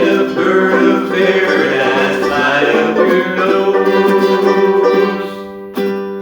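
Ukulele strumming chords. The playing eases off about five seconds in, then a final strummed chord rings out and fades.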